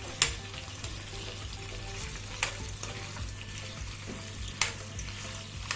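Food sizzling as it fries in a pan over a gas flame, with three sharp clinks of a utensil against the pan about two seconds apart.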